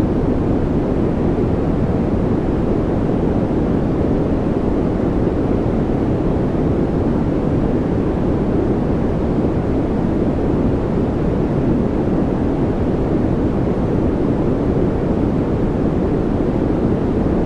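Steady, even noise track sold as white noise, deep-toned with its weight low and only a little hiss on top, unchanging, meant to be left playing as a background for focus and calm.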